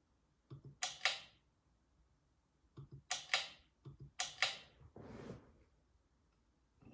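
Ceiling fan pull-chain switch pulled three times, each pull a quick double click, stepping the fan's speed toward medium, with a short rattle after the last pull.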